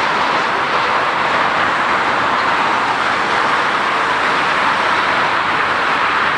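Aircraft noise: a loud, steady rushing sound that holds an even level throughout.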